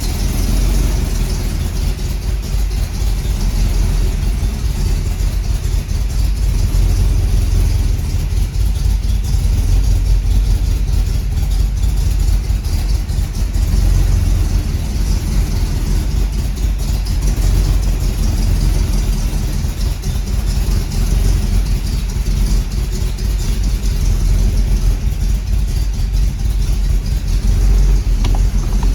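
350 small-block Chevrolet V8 running steadily, a low, even engine sound with no clear revving.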